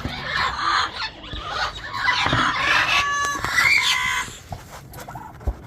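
Parrot squawking: harsh, raspy calls for about four seconds, with a couple of short pitched notes and a brief whistle near the end of the calling, from a breeding bird in its nest box.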